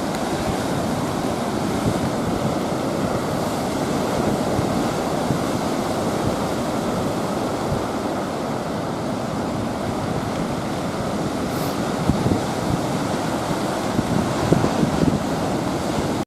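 Ocean surf from a typhoon swell breaking on the beach, a steady rushing wash, with wind buffeting the microphone in a few short gusts near the end.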